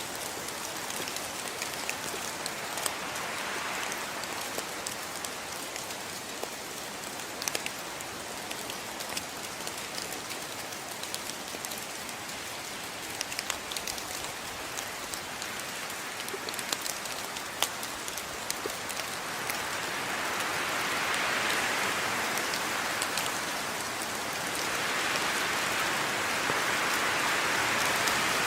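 Steady rain falling, with individual drops ticking sharply against a surface. The rain swells louder twice in the last third.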